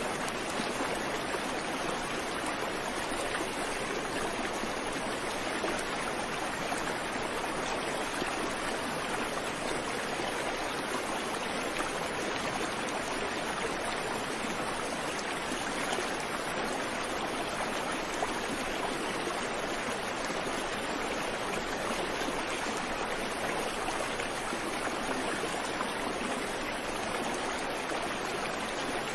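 Creek water flowing steadily over rocks, a continuous even rush with no birdsong.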